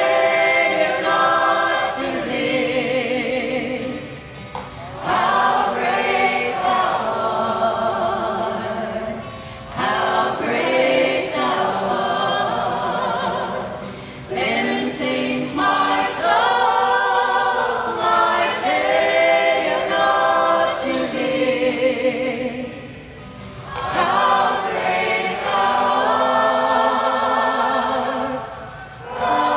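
A large group singing a worship song together, line by line with short breaks between phrases.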